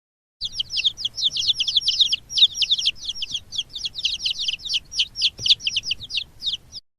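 Birds chirping: a dense, fast run of short, high chirps, each sweeping downward, starting about half a second in and cutting off abruptly near the end.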